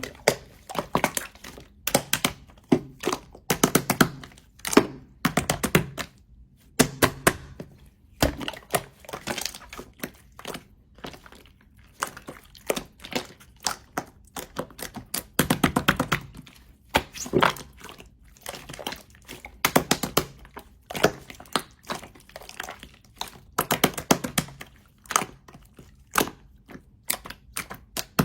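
Slime being squished and pressed by hand, giving repeated clusters of sharp clicking and popping, some with a soft thud underneath.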